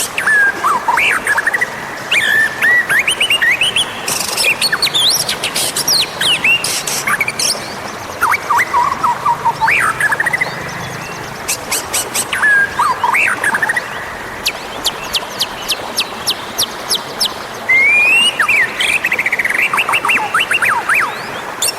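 White-rumped shama (murai batu) singing a long, varied song: whistled notes that slide up and down, mixed with fast clicking trills and chatter, phrase after phrase with barely a break.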